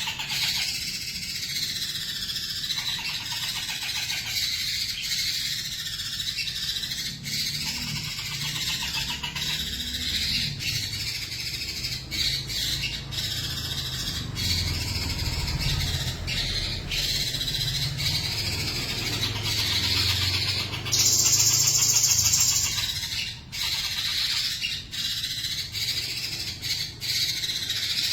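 White-rumped shama (murai batu) singing continuously: an insistent, aggressive fighting song of varied warbling phrases full of mimicked fill-ins. About three-quarters of the way through there is a loud, harsh, hissing burst lasting about a second.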